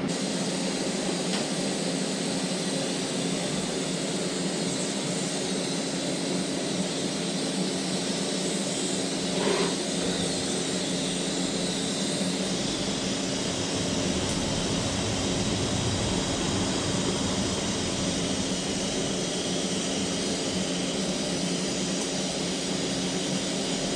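Electric welding arc on a motorcycle slip-on exhaust pipe: a steady hiss with a low hum, running evenly throughout.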